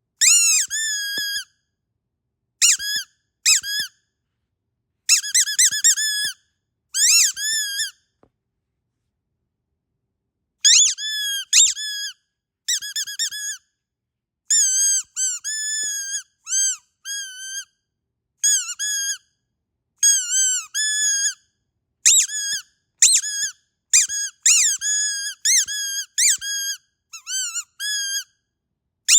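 Squeaky dog toy squeezed over and over in quick runs of short, high squeals, each bending down and back up in pitch. There is a pause of a couple of seconds in the middle.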